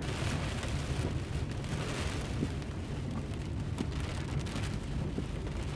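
Rain pelting a car's windshield and body, a dense patter of many small drop hits over a steady low rumble.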